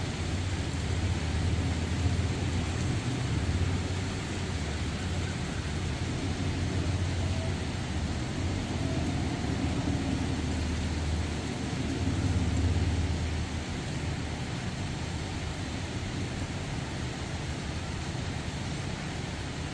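Steady hiss of heavy rain with the low rumble of a distant passing train underneath. The rumble swells twice, a few seconds in and again about two thirds of the way through.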